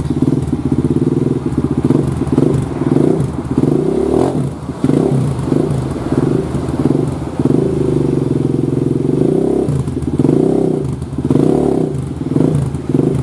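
Kawasaki KLX single-cylinder four-stroke engine running through a GP7 aftermarket exhaust, revved up and down repeatedly with throttle blips.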